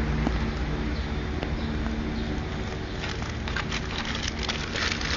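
Freshly lit bonfire crackling and popping, the pops coming thicker from about three seconds in, over a steady low hum.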